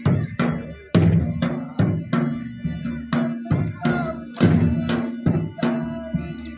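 Drum beaten in a fast, steady rhythm for an attan dance, about three strikes a second: deep, ringing low strokes mixed with sharper, brighter hits.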